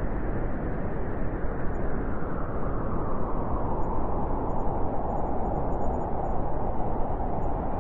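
Blizzard wind blowing steadily and hard, with a howling note in the middle of the range growing stronger from a few seconds in.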